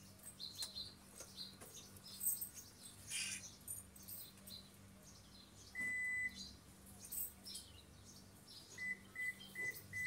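Small birds chirping in short, scattered high calls over a low steady hum. About six seconds in comes a single half-second electronic beep, then four short beeps evenly spaced near the end.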